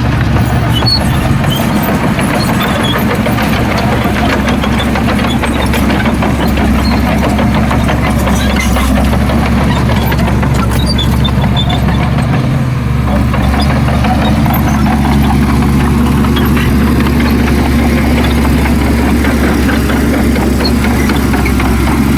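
Heavy diesel engine of earth-moving machinery running steadily at a low, even rumble.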